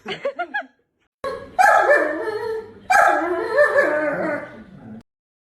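A dog vocalizing: four quick short yips, then two long, drawn-out calls that waver in pitch, cutting off suddenly about five seconds in.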